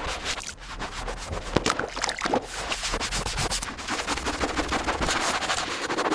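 Rough rubbing and scraping on a surface in quick, irregular strokes.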